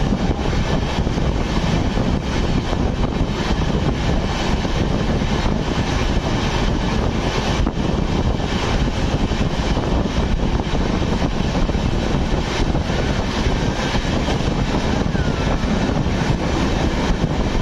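Passenger train coaches rolling past close on the adjacent track: a loud, steady rush of wheel-on-rail noise and wind.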